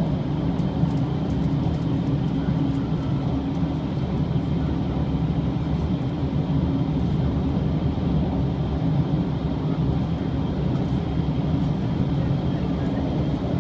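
Cabin noise inside a Shiokaze limited express train running at speed: a steady low rumble with a faint steady high whine, unchanging throughout.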